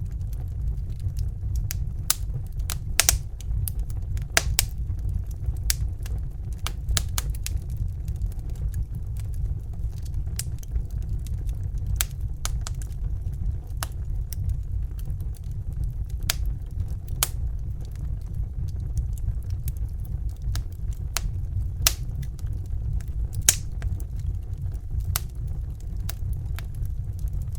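Fire crackling: irregular sharp pops and snaps, several a second at uneven spacing, over a steady low rumble.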